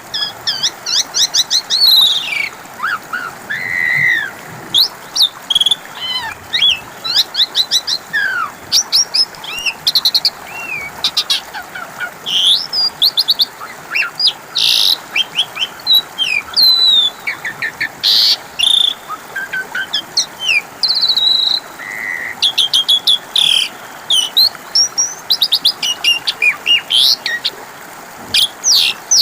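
Asian pied starling (jalak suren) singing continuously: a busy, varied stream of sharp chirps, whistled rising and falling notes and rapid trills, with only short pauses between phrases.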